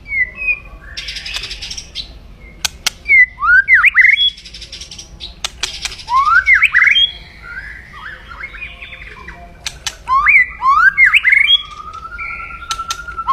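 White-rumped shama (murai batu) calling aggressively: harsh rasping 'kretekan' rattles twice, about a second in and about six seconds in, between sharp upswept whistles and clicks, with a long level whistle near the end. It is the loud rattling call of an agitated bird.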